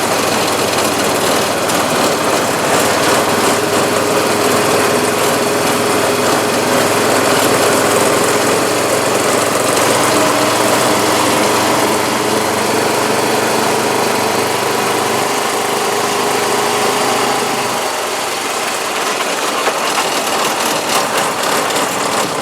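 Honda four-wheeler (ATV) engine running steadily while being ridden, its note easing off about three-quarters of the way through.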